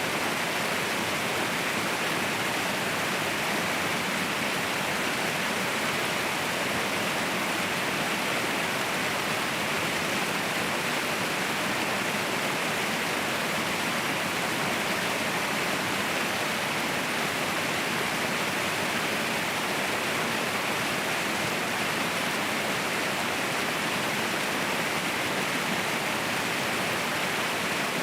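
Mountain waterfall rushing: a steady, unbroken roar of falling water.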